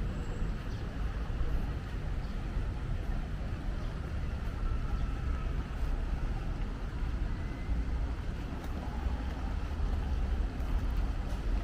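Steady low rumble of city street traffic, with wind on the microphone.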